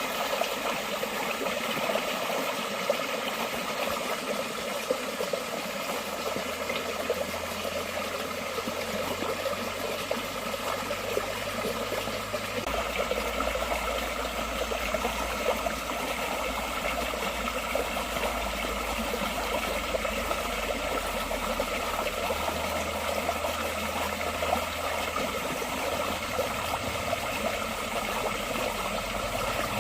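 Forest stream flowing steadily, with a continuous rush of water and small splashing ticks over it.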